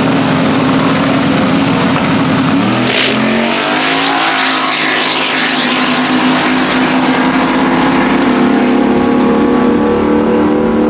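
Drag racing engine at full throttle making a pass down the strip. A high whine rises early on, and about two and a half seconds in the engine note drops and climbs again like a gearshift, then runs steady and loud.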